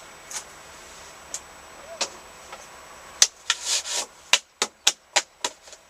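Empty canisters being handled: a few light clicks, then from about three seconds in a quick run of sharp knocks and rubbing as they are moved and set down.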